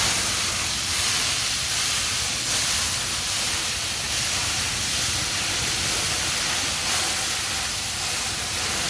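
Hilsa fish frying in hot oil: a steady, loud sizzle that swells slightly now and then.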